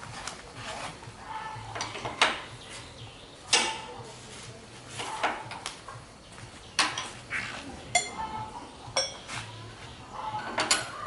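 Metal clinking and knocking, as of hand tools and metal parts being handled: about half a dozen separate strikes a second or more apart, a couple of them with a short metallic ring.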